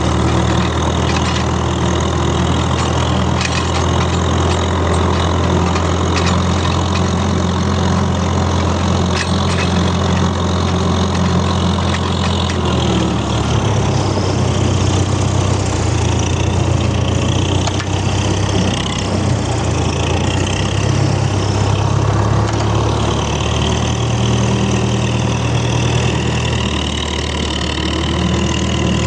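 Tractor engine running steadily at low revs, its note shifting slightly about 13 seconds in.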